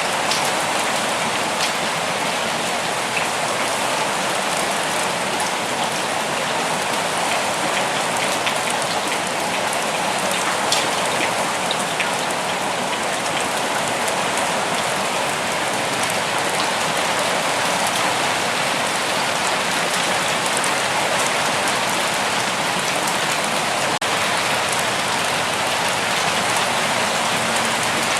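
Steady forest rain: an even hiss of rainfall with a few single drops ticking out louder now and then.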